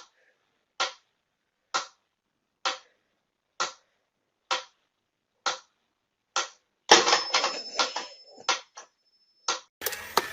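Sharp clicks repeating evenly about once a second, seven in a row, followed by a busier cluster of clicks over a faint hiss with a thin, high steady tone.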